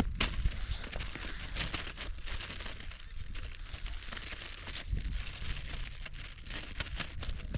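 Steady crinkling and rustling close to the microphone, scattered with many small clicks, over a low rumble.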